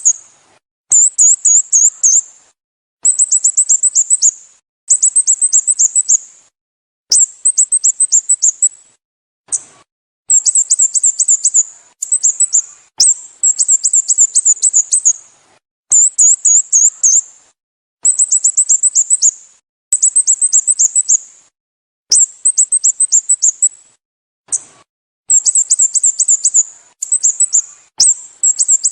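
Sooty-headed bulbul calling: short, high-pitched phrases of rapid repeated notes, each about a second long, coming again and again with brief gaps between them.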